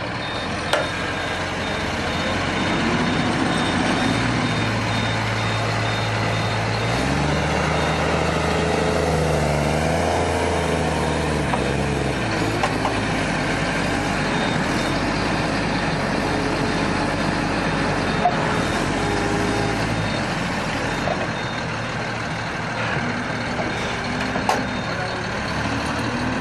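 Tractor engine running under load, its pitch rising and falling in steps as it is revved and eased off, typical of a tractor stuck in a muddy field trying to pull free.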